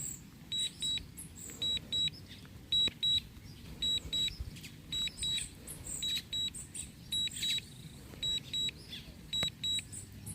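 Drone remote controller or flight app sounding a warning: short, high electronic beeps in pairs, repeating about once a second.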